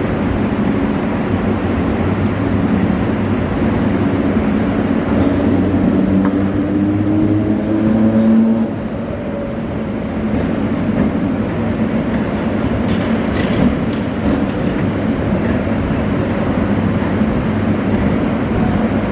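Mumbai suburban EMU local train arriving along a platform, its wheels and running gear rumbling steadily as it slows. A humming motor tone runs under it and stops about eight and a half seconds in, after which the sound drops a little.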